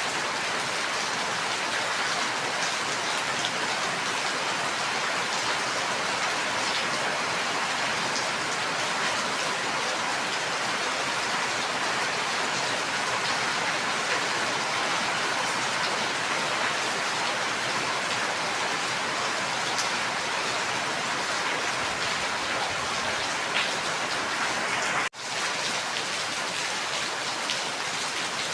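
Steady rain falling, an even dense hiss of drops with no let-up; the sound cuts out for an instant near the end.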